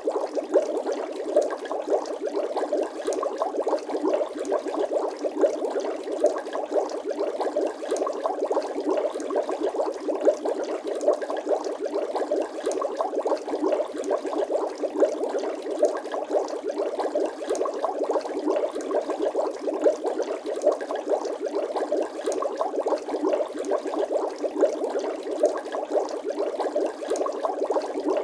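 Bubbling water sound effect: a steady, dense stream of small rapid bubble pops and gurgles with no deep rumble.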